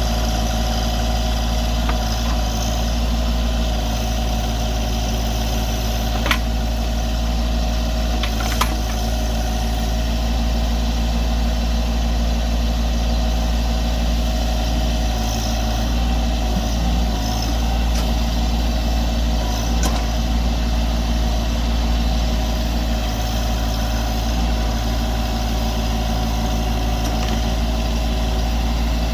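Branson 2500 compact tractor's engine running steadily while it works a backhoe, with two short sharp knocks about six and eight and a half seconds in.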